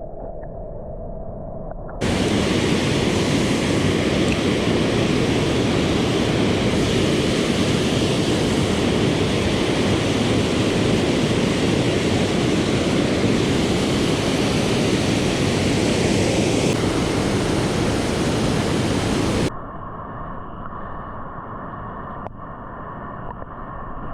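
Steady rushing of river water below a dam. After about two seconds it turns much louder and fuller, then drops back to a softer rush a few seconds before the end.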